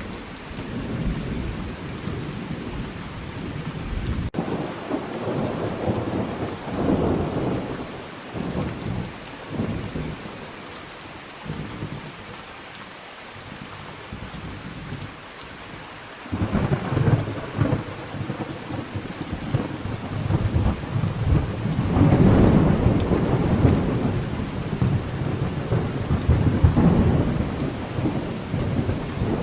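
Thunderstorm: steady rain falling with rolling thunder. A sharp crack about four seconds in leads into rumbling, which dies down midway, then a longer, heavier rumble builds from about halfway and peaks near the end.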